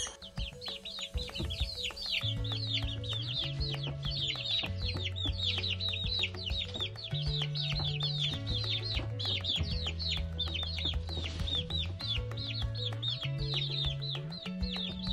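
Domestic chicks peeping: rapid, repeated high peeps, each falling in pitch, several a second. Background music with low held bass notes comes in about two seconds in.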